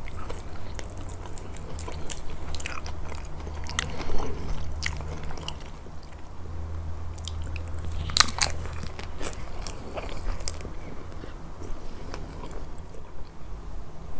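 Close-miked eating sounds from a grilled fish meal: chewing and crunching, with many sharp crisp clicks and a dense cluster of them about eight seconds in. A steady low hum runs underneath.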